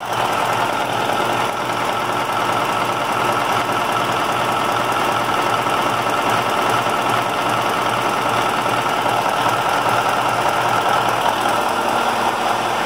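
KAMAZ 740.632-400 V8 turbodiesel engine running steadily at an even speed.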